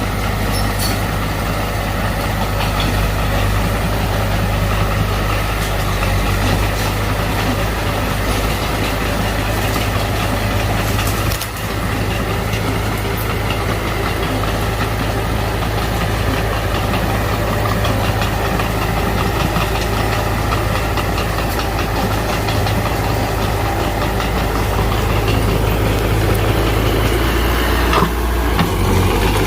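Heavy diesel engine of earthmoving machinery running steadily, with a brief dip about a third of the way in and a change in its note near the end.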